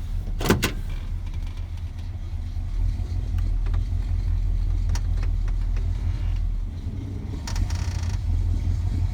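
Square-body 3500 dually's 350 small-block V8 running steadily as the truck backs through snow, still cold and running rich. A sharp clunk about half a second in, and a brief hissing scrape near the end.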